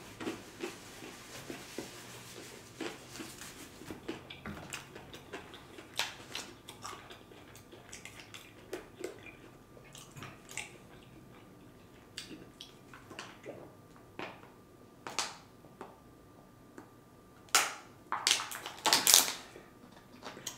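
A person chewing pizza close to the microphone: soft wet clicks and smacks of mouth sounds, with a few louder short noises near the end.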